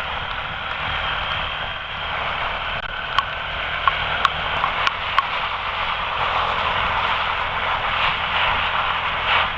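Quad (ATV) engine running while riding through pouring rain, under a steady hiss of rain and wind on the helmet camera, with a few sharp ticks about three to five seconds in.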